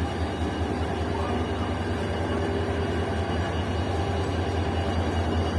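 Train running with a steady low drone and a fast throb, growing slightly louder toward the end.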